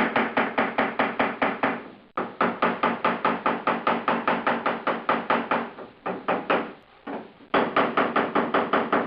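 Body hammer rapidly tapping on a welded steel car door panel, about seven blows a second in runs with two brief pauses, the thin sheet metal ringing under each blow. The panel is being planished back into shape after it shrank and warped from welding.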